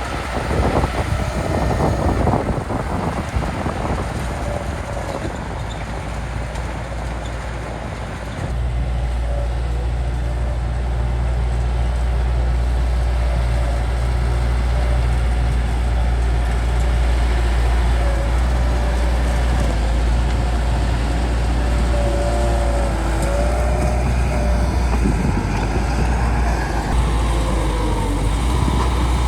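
Bulldozer's diesel engine running under load, with knocks in the first few seconds. Its low engine note steps up louder about eight seconds in and then holds steady.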